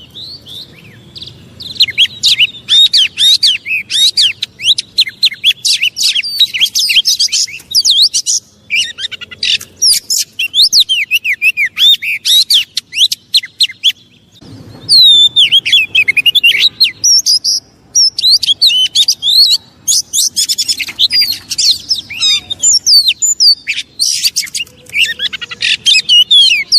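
Oriental magpie-robin (kacer) singing a fast, loud, unbroken run of chirps and sweeping whistled notes, with brief pauses about a second in, around eight seconds and around fourteen seconds. This is a lure song, played to provoke a kept kacer into getting worked up and answering.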